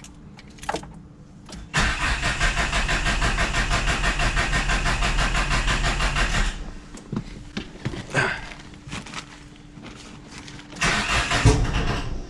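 A Chrysler Conquest/Mitsubishi Starion's G54B four-cylinder turbo engine being cranked on the starter with a quick, even pulsing for about five seconds. It is cranked again briefly near the end.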